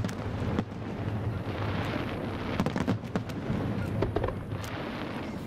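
Fireworks exploding: several separate bangs a second or so apart, over a steady background din.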